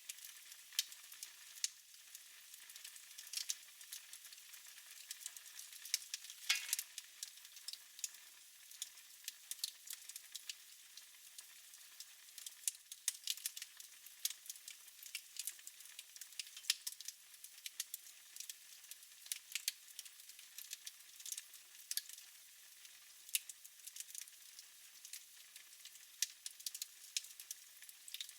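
Wood fire crackling in a fireplace: a soft steady hiss with frequent small pops and snaps, and one louder crack about six and a half seconds in.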